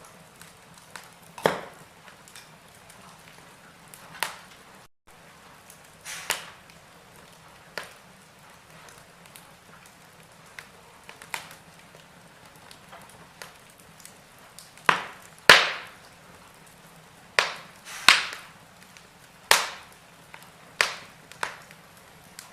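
Wood fire in a fireplace crackling: scattered sharp pops and snaps at irregular intervals, coming more often and louder in the second half.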